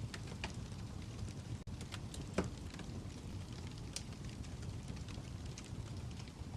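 Fire crackling: a steady low rumble with scattered sharp pops and snaps, the loudest pop about two and a half seconds in.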